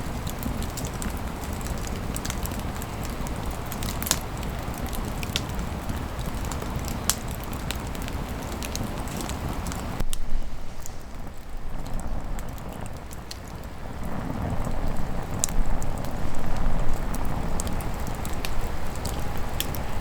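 Wood campfire burning in a fire pit, crackling with scattered sharp pops over a steady low rumble. About halfway the sound changes abruptly: the pops thin out and it goes quieter for a few seconds before the low rumble swells again.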